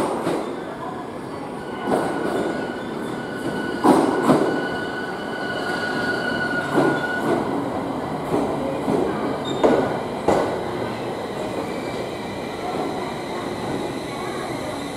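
JR East 701 series electric train arriving at a platform and slowing. Its wheels clack over rail joints every second or two over a steady running rumble, with a high whine in several tones that is strongest in the first half.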